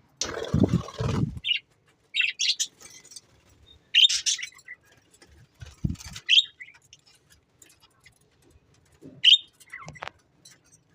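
Small cage birds giving short, high chirps in scattered bursts, with a brief rustle near the start and a couple of soft thumps.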